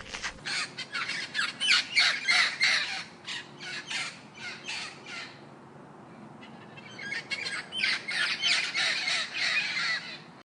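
Birds giving harsh squawking calls in quick succession, several a second, in two bouts with a short lull about halfway.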